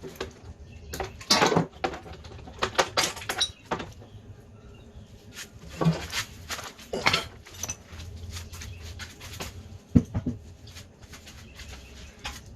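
Irregular metal clanks, knocks and light scrapes of engine parts and tools being worked on while the ATV engine is wrestled out of its frame.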